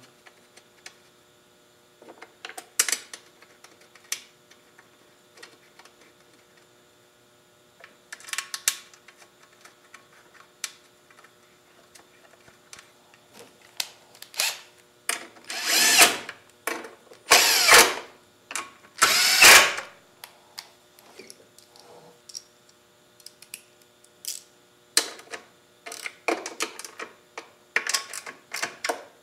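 Power drill driving in the mower's gas-tank bolts: three short runs of about a second each, a little past halfway, among scattered clicks and knocks of tools and metal parts being handled.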